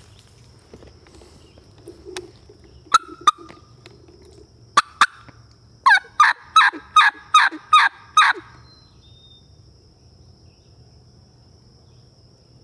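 Turkey call run by a hunter: a few sharp clucks, then a loud series of about seven yelps, about three a second, calling to make a gobbler answer. A faint steady high insect hum sits underneath.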